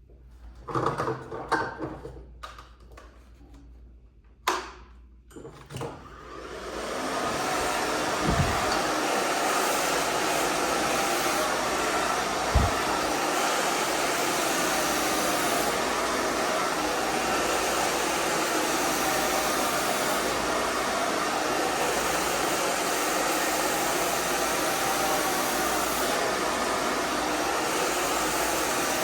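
A few clicks and rustles, then a handheld hairdryer starts up about six seconds in and blows steadily with an even rushing noise. There are two brief low thumps early in the run.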